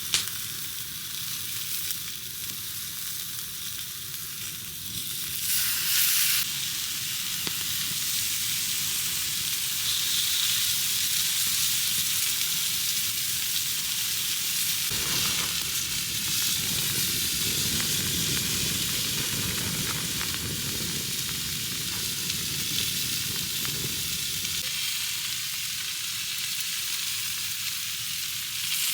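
Meat rolls frying in a pan with a steady sizzle, which flares up briefly about six seconds in.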